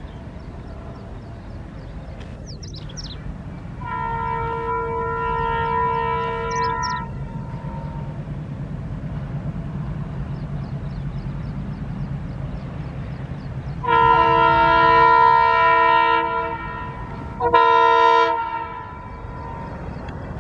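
Indian Railways WDM3A diesel locomotive sounding its multi-tone horn: a blast of about three seconds, then a long blast and a short one near the end. Under it, the locomotive's ALCO diesel engine rumbles louder as it approaches.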